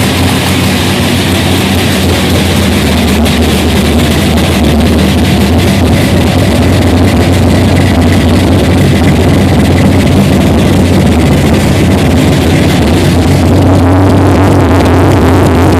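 A '94 drag-racing grudge car's engine running loud and rough at idle on its first start-up, growing slightly louder partway through.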